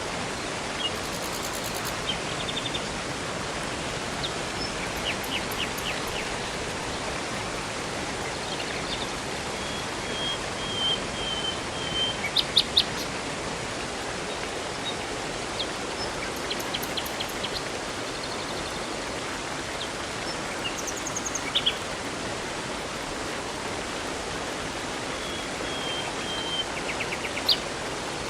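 Steady rushing of a river and waterfall, with songbirds chirping and calling over it in scattered short phrases and trills, a few sharper chirps standing out now and then.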